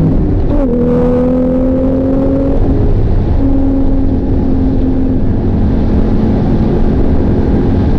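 Porsche 911 GTS twin-turbo flat-six engine under way. Its pitch dips and comes back sharply about half a second in, climbs slowly, then holds a steady drone over a constant rushing noise.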